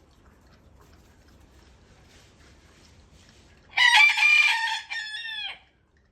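A rooster crows once, about four seconds in: a loud call of about two seconds whose drawn-out last note falls in pitch.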